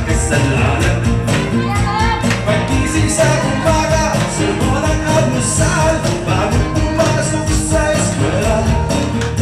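A live band playing an upbeat song with a steady drum beat.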